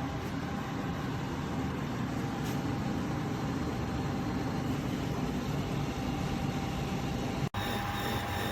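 KGOGO 7000 BTU portable air conditioner running: a steady hum and rush of air with a thin, steady high tone over it. The sound cuts out for an instant about seven and a half seconds in, then carries on.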